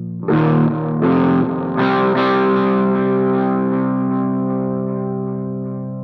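Intro music: distorted electric guitar chords, struck a few times and then held, slowly fading.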